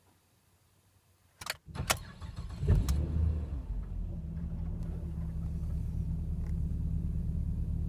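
Ford XR6 Turbo's turbocharged inline-six cold-started on E85: a couple of clicks, a short crank, and it fires on the first crank with a brief flare in revs. It then settles into a steady idle with no surging.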